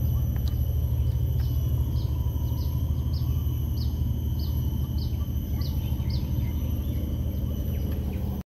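A bird repeating a short, falling high chirp about twice a second for several seconds. Under it run a steady low rumble and a thin, constant high whine.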